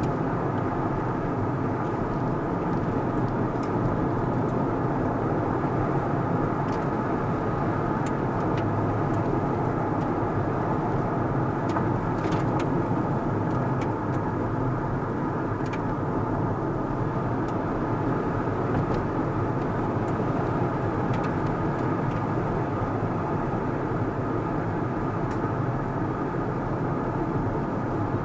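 A car being driven at a steady pace: a constant blend of engine and road noise, with a few faint ticks.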